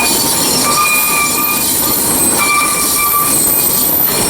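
Narrow-gauge (30-inch) tourist train rolling along, a steady loud rumble of wheels on rail with high-pitched wheel squeals that come and go every second or so.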